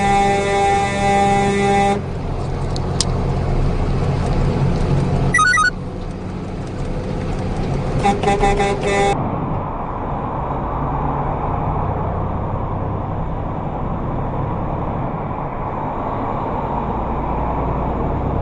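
Vehicle horn honking: one long blast, a few quick short toots a few seconds later, then another brief blast. After that comes steady road and engine noise of a vehicle driving.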